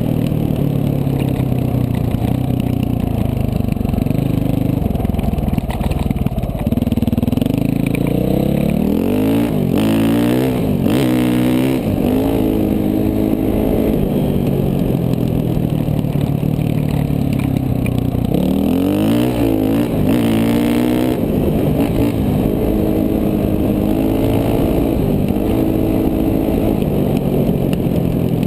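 KTM 450 dual-sport motorcycle's single-cylinder four-stroke engine under way, its pitch rising and falling with the throttle. There are quick runs up through the revs around ten seconds in and again near twenty seconds.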